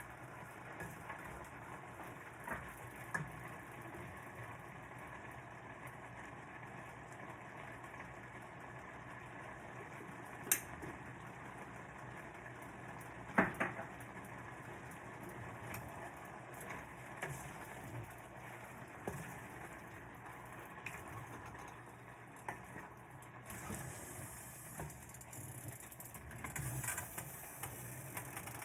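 Cooking at a pan: a utensil clinking against a pot now and then, over a steady low hum, with the two sharpest clinks about ten and thirteen seconds in.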